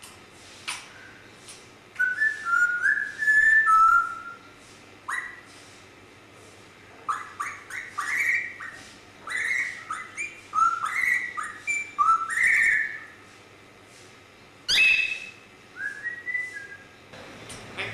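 Grey parrot whistling clear, held notes that step up and down in short phrases: one run about two seconds in, a longer series in the middle and a short phrase near the end. A sharp click comes between the phrases.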